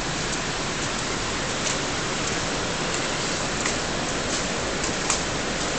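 Steady rain: an even hiss with a few faint, sharp drop ticks.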